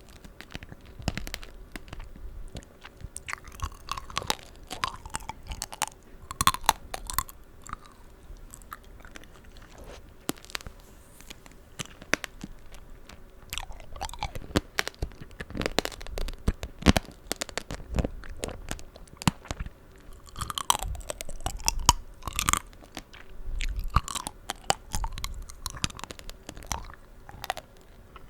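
Close-miked chewing of tanghulu: the hard candied-sugar shell cracks and crunches in irregular, rapid clicks over juicy fruit (strawberries and green grapes), with wet mouth and smacking sounds as the fruit juice comes out.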